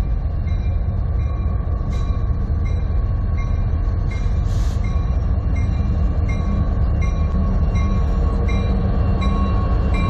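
Diesel freight locomotives running past at close range, a deep steady engine rumble mixed with the noise of steel wheels on rail. A short high ding repeats evenly about every two-thirds of a second over it.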